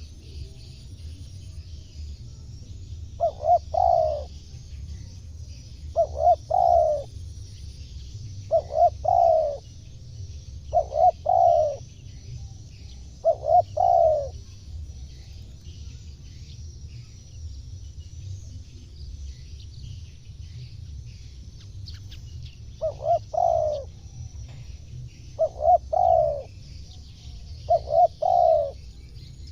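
Spotted dove (tekukur) cooing: eight short coo phrases, one every two to three seconds, with a pause of several seconds midway. A steady high-pitched hiss runs underneath.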